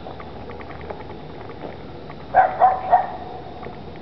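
A dog barking three times in quick succession about two and a half seconds in, over a steady background hiss.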